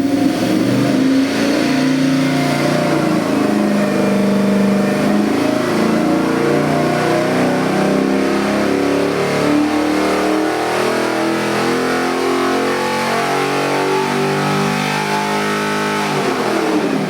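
A Chevy LS 441 cubic-inch V8 crate engine running and being revved, its pitch stepping up and down repeatedly.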